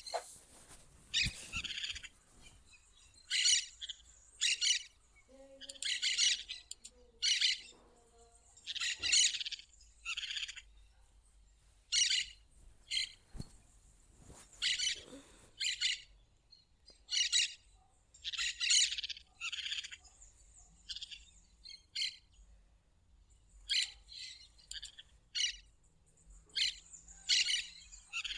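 Plain parakeet (periquito-rico) calling: short bursts of high-pitched chattering chirps, repeated about every one to two seconds.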